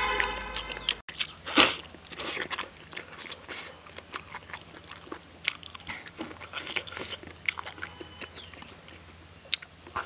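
Close-up chewing and biting on a braised pig's trotter: irregular smacks and crunches of teeth on skin and meat, the loudest bite about one and a half seconds in.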